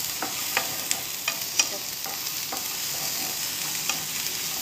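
Mushrooms, asparagus, garlic and green chillies sautéing in a little oil in a frying pan: a steady sizzle, with a few sharp clicks and taps against the pan, most in the first two seconds.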